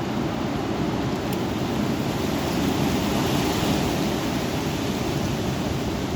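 Strong thunderstorm wind blowing steadily, rumbling on the microphone, swelling a little about halfway through.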